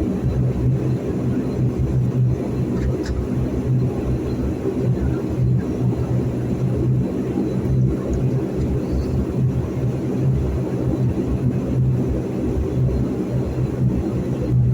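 De Havilland Dash 8-400's Pratt & Whitney PW150A turboprop engines and propellers running during taxi, heard from inside the cabin as a steady drone with a strong low hum.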